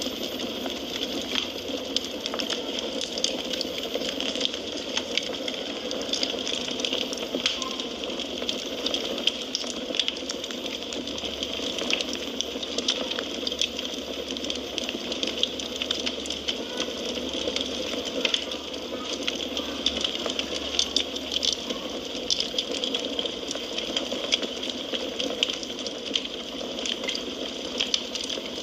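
Wood fire burning in a fireplace: a steady soft hiss with frequent small crackles and pops.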